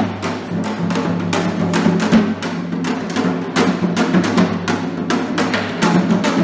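Percussion-led music: drum strikes, about two or three a second, over a steady low sustained bass.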